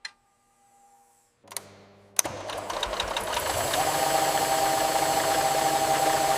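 HVLP paint-spray equipment starting up: a low motor hum about a second and a half in, then a steady hiss with a constant whine from about two seconds on as the spray gun runs.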